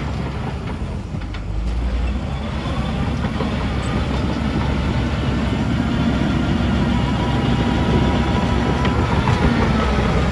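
Diesel engine of heavy earthmoving machinery running steadily under load, with faint thin squealing tones over it in the second half and a slight rise in level.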